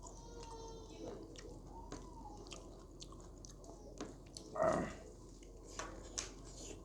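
Close-up chewing and biting of food, with wet mouth smacks and clicks. A short vocal sound comes about four and a half seconds in.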